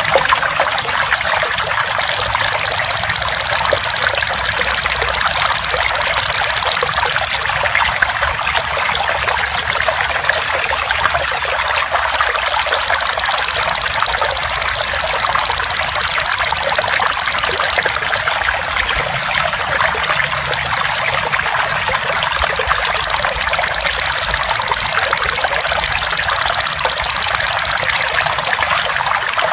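Steady trickling water with a belalang emas (golden grasshopper) insect buzzing over it. The buzz is a loud, even, high-pitched drone that comes in three bouts of about five seconds each, separated by pauses of about five seconds.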